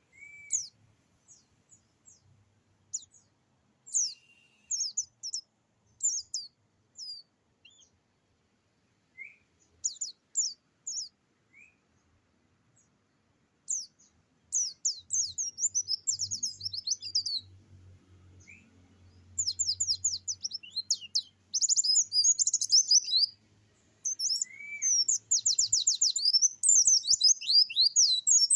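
Songbird singing: scattered short high chirps and a few lower whistles at first, then from about halfway a fast, dense run of rapid-fire high notes, the varied 'nembak' song kept as a tutor recording for caged songbirds.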